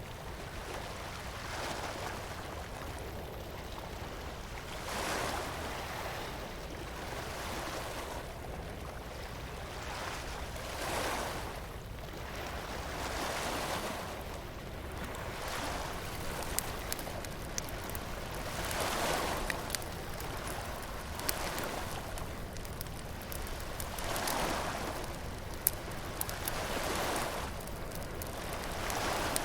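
Surf washing onto a beach in swells every two to three seconds, with a wood bonfire crackling; sharp pops come more often in the second half, one of them louder.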